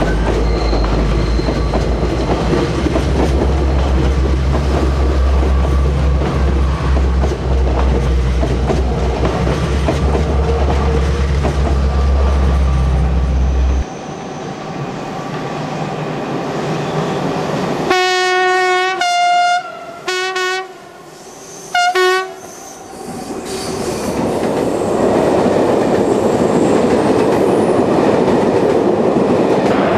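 A regional train rumbles past over the rails. After a cut, a train horn gives several short blasts in two pitches, and a train then approaches and runs past close by, its noise building.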